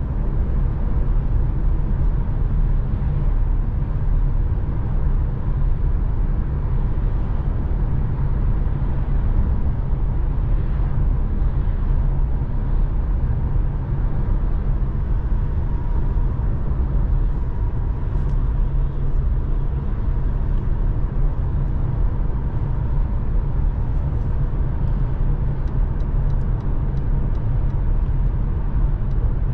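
Mercedes-AMG C43 with a 3.0-litre twin-turbo V6, driving at an even pace: a steady low rumble of engine and road noise with no revving.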